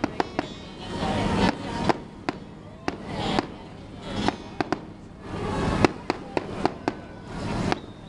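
Aerial fireworks going off: a string of sharp bangs, some in quick pairs and clusters, between swelling stretches of louder, denser sound.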